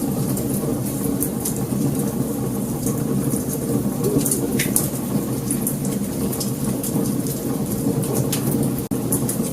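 Wood fire burning: a steady low rumble of flames with frequent sharp crackles and pops scattered irregularly through it. The sound drops out for an instant near the end.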